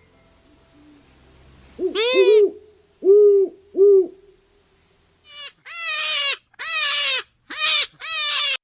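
Owl hooting: a doubled hoot about two seconds in, then two short hoots, then a run of five longer, slightly falling hoots near the end.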